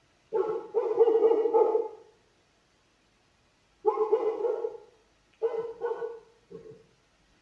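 Dog barking in runs of several barks, with silent gaps of about two seconds between the runs; the last run ends in a shorter, quieter bark.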